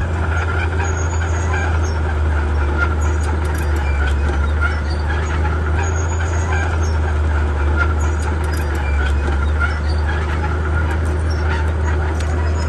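Komatsu D31P crawler bulldozer's diesel engine running steadily with a deep hum, with scattered short clicks and clanks over it.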